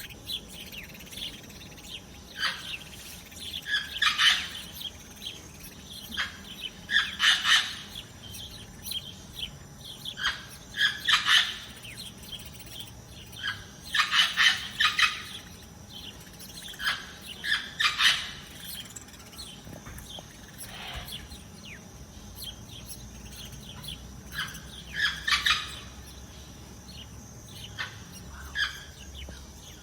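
Songbirds chirping in quick clusters of short notes every few seconds.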